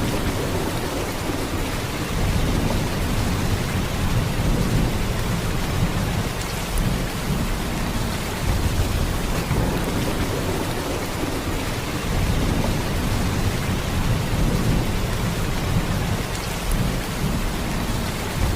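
Heavy rain in a steady downpour: a dense, even hiss with a deep low rumble underneath, swelling and easing slightly.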